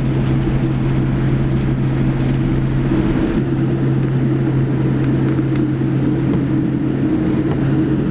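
Steady cabin noise of a Boeing 787-9 airliner with its engines running: an even, unbroken hum with a steady low drone, heard from inside the passenger cabin.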